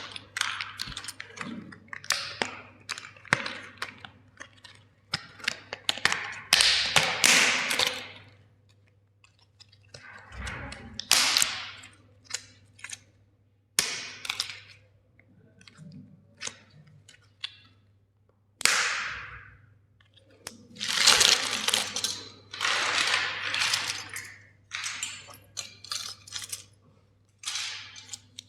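Plastic crackling and snapping under pressure in irregular bursts of sharp cracks, with short quiet gaps between.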